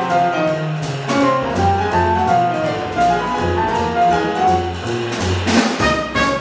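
Acoustic jazz quintet of tenor saxophone, trumpet, piano, double bass and drums playing a bebop-style tune. The horns play melodic lines over walking double bass and drums, with a strong accent about five and a half seconds in.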